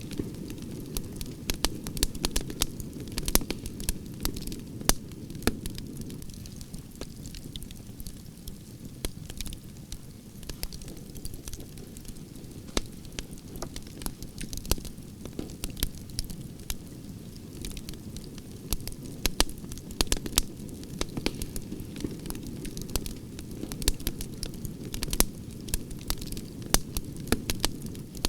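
Wood fire of burning branches crackling, with frequent irregular sharp pops and snaps over a steady low rush of flames.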